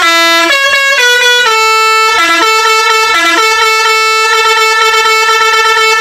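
Multi-tone 'telolet' bus horn playing a short melody of stepped notes, then holding one long note.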